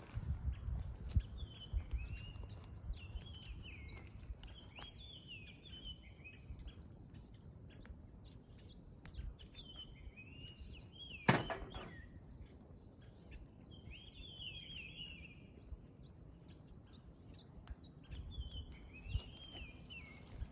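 Wild bird singing short warbling phrases over and over, every two or three seconds, over the small crackles and pops of firewood burning in a campfire, with one loud pop about eleven seconds in.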